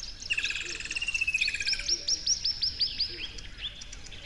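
Songbird singing: a fast trill, then a run of about eight clear down-slurred whistled notes that slow and drop lower near the end, with other birds chirping faintly in the background.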